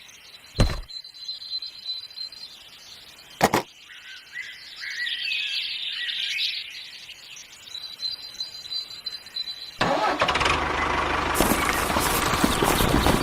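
Two sharp knocks, then about ten seconds in a motor starts up and runs with a loud, steady, rattling noise.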